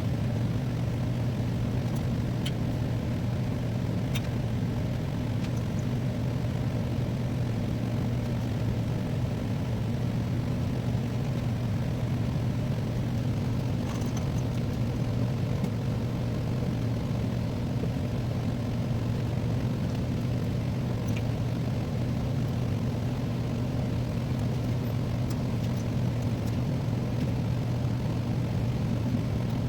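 A steady low machine hum that holds one pitch and level throughout, with a few faint ticks.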